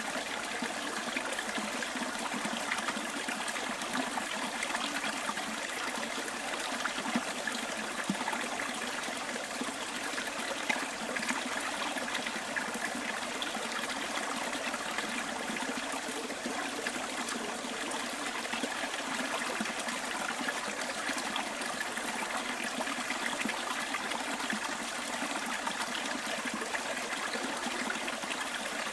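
Small bush stream trickling and babbling steadily, a constant wash of running water with small splashes scattered through it.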